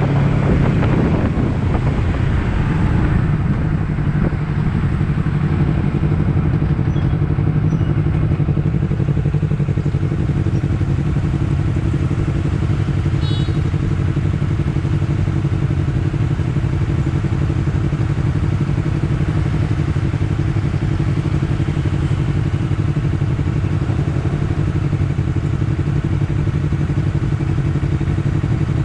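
Honda CBR250RR parallel-twin engine idling steadily. It settles into the idle within the first two seconds.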